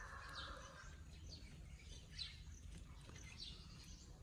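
Faint bird chirping: short, high, falling notes repeated about once a second over low background noise.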